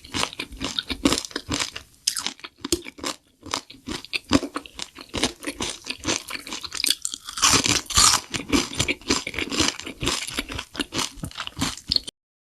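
Chewing and biting into chicken, with many crisp crunches in quick, irregular succession. The crunching cuts off suddenly near the end.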